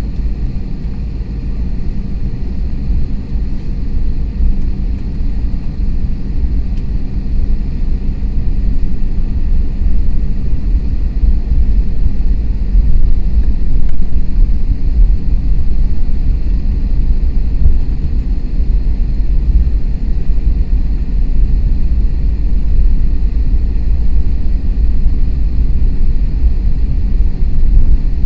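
Inside the cabin of an Airbus A321neo taxiing after landing: a steady low rumble of the engines at idle and the wheels rolling, with a few faint steady tones above it. The rumble grows slightly louder near the middle.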